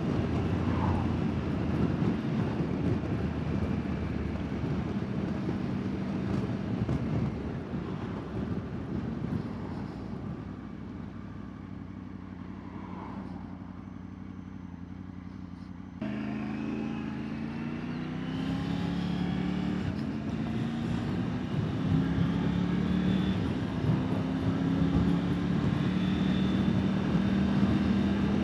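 Motorcycle engine and road-wind noise picked up by a helmet-mounted wireless mic with noise cancellation set low. The engine eases off and quietens through the middle. About sixteen seconds in it pulls away, its note rising in several steps as it changes up through the gears.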